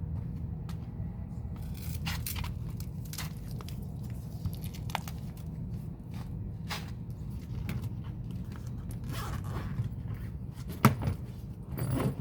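Scattered rustling, scraping and clicking handling noises over a steady low rumble, with one sharp knock about eleven seconds in and a short clatter just after.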